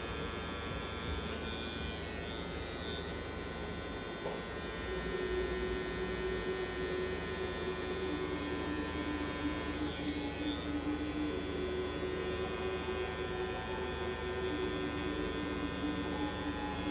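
Tattoo machine buzzing steadily as it runs on the skin.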